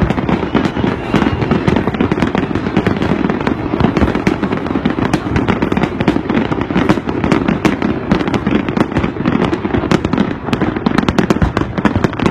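Fireworks display: a dense, continuous barrage of loud bangs and crackles, many bursts every second with no pause.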